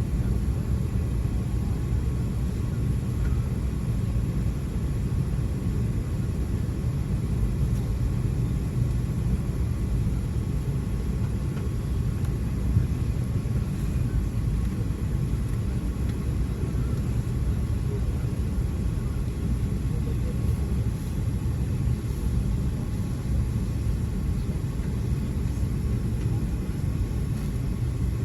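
Steady low rumble of an Airbus A380's engines and rushing air, heard from inside the passenger cabin.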